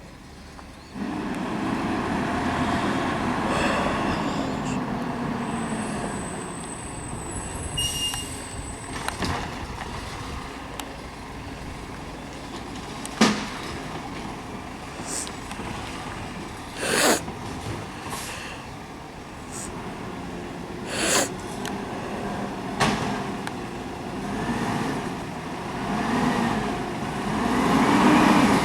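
Garbage truck's diesel engine running and working, with a few sharp bangs and short hisses along the way. Near the end the engine revs rise and fall several times.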